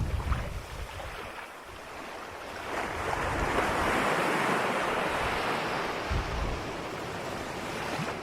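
Ocean waves washing on a shore: a wave breaks at the start, the sound dips, and a second wave builds from about three seconds in and eases off near the end, with low rumbles early on.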